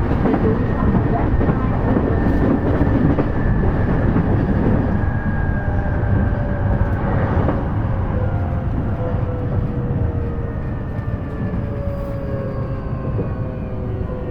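E233 series electric train heard from on board: steady rumble of wheels on rail, with the traction motors' whine gliding slowly downward in pitch as the train slows.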